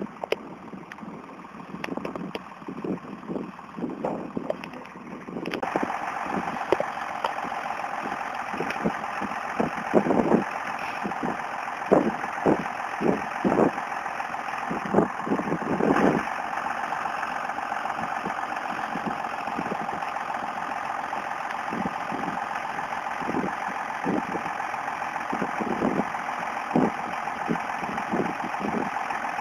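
Tractor engine running, getting louder and steadier about five seconds in, with repeated low thumps throughout.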